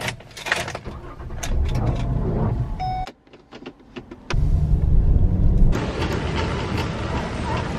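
A car's engine being started and running, then a quieter moment with a few sharp clicks as the automatic gear selector is moved, then the engine running louder as the car moves off. Near the end the sound cuts to the busy background hum of a large shop.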